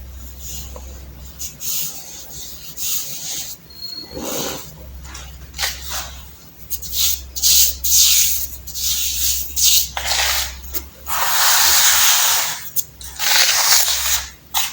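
Reformed baking soda crunching and crumbling as it is crushed by hand, in irregular gritty bursts, with two longer grinding crushes in the last few seconds.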